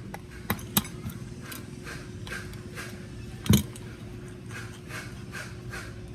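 Hand tools clicking and knocking on the metal parts of a Toyota starter solenoid being taken apart. There is a regular run of light clicks about two or three a second, and one loud knock about three and a half seconds in, over a steady low hum.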